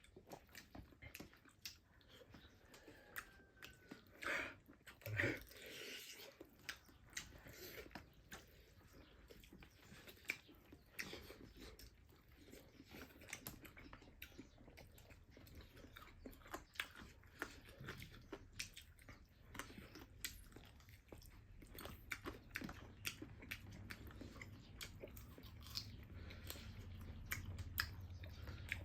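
Close-miked chewing and crunching of food: many small, irregular crunchy clicks, with a louder cluster about five seconds in and a low hum rising under it toward the end.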